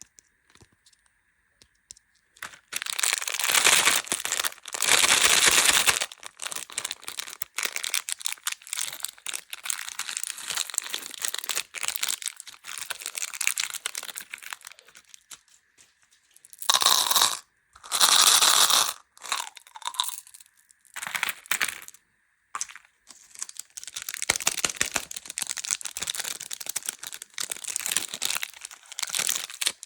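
Plastic candy wrappers being crinkled and torn open in a run of irregular crackles, with louder bursts of tearing; the first couple of seconds are nearly quiet.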